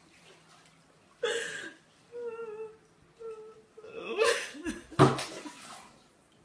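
A woman sobbing in distress: a gasping breath about a second in, then short high, wavering cries, and louder broken sobbing breaths near the end, with a low thump among them.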